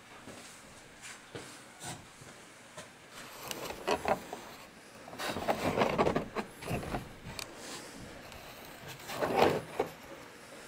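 Workshop handling noises while assembling a wooden cart: scattered small knocks and clicks of hardware and parts, with two longer stretches of scraping and rustling, the first around five to seven seconds in and a shorter one near nine seconds.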